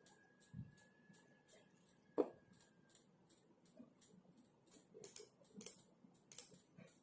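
Quiet keyboard typing: faint, irregular key clicks a few times a second, with one louder knock about two seconds in. A faint steady high whine runs under the first half and stops partway through.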